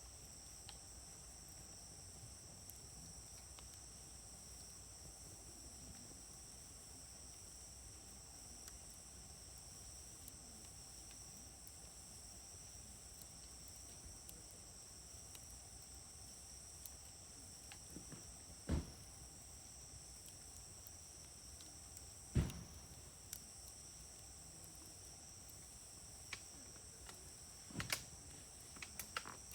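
Wood fire crackling faintly under a steady high chirring of insects, with a few sharp pops from the burning wood, the loudest about three quarters of the way through and several close together near the end.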